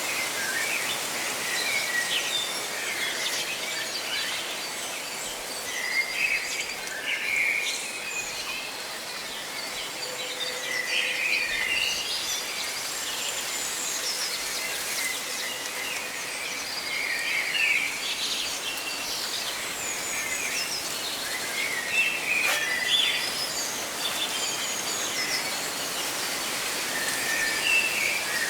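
Birds chirping and calling in short, repeated phrases over a steady hiss of rustling leaves.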